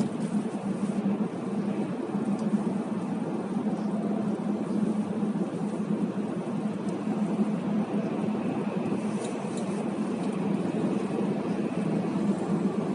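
Steady car noise heard from inside the cabin of a moving car: engine and road noise with a constant low hum.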